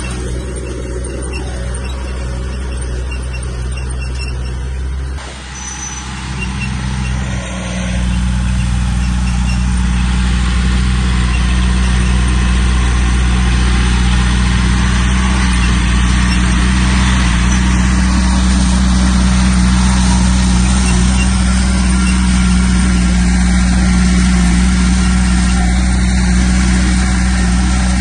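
Heavy diesel engine of earthmoving machinery running with a steady low hum. It dips briefly about five seconds in, then runs louder and steadier from about eight seconds in.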